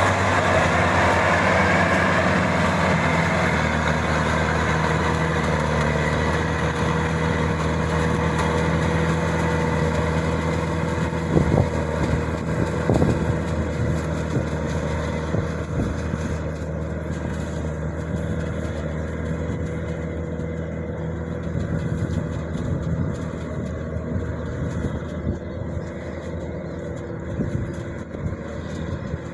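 Maxxi 85 combine harvester's engine running steadily, with a few clanks around the middle; it grows gradually fainter through the second half.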